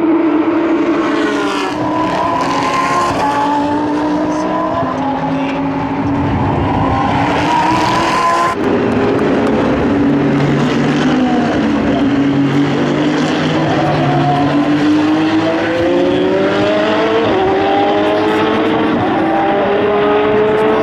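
Endurance race car engines running hard on the circuit. The pitch falls as the cars slow, then climbs through the gears, dropping sharply at each upshift as the cars accelerate away in the second half. There is a sudden change to another car's sound a little before halfway.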